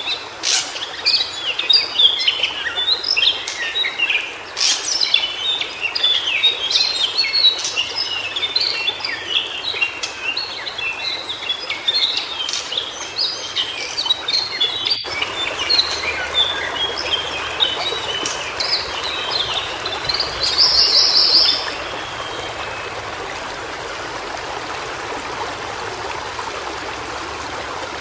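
White-browed shortwing singing a rapid, jumbled run of high twittering notes, with a brighter burst just before the song stops about three-quarters through. A stream runs steadily underneath, louder from about halfway, and is all that is left near the end.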